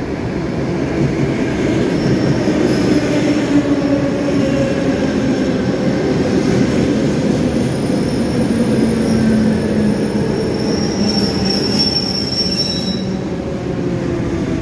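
Electric commuter train pulling into the platform and rolling past close by, braking: a loud steady rumble of wheels on rail under a motor whine that slowly falls in pitch, with a thin high wheel squeal that grows stronger near the end.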